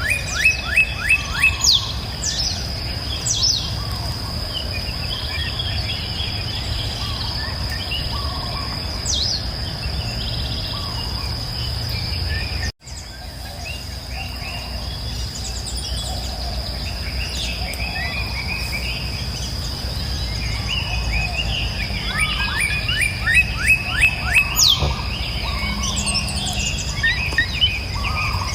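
Songbirds singing, with a rapid series of short descending notes near the start and again near the end and scattered chirps between, over a steady high insect trill and a low rushing of river water. The sound cuts out for an instant about halfway through.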